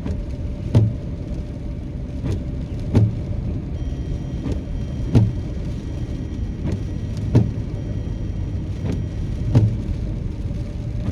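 Steady car-interior rumble with a regular knocking: pairs of knocks under a second apart, one pair about every two seconds, the rhythm of windshield wipers sweeping back and forth in the rain.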